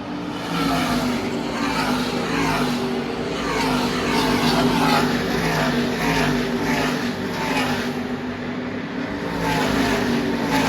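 NASCAR Camping World Truck Series race trucks' V8 engines running at racing speed, one after another going by with a falling pitch as each passes.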